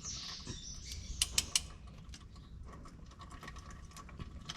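Ratchet clicking and a few sharp metallic clicks, the loudest three close together about a second and a half in, as an oil filter wrench is worked on the oil filter to break it loose.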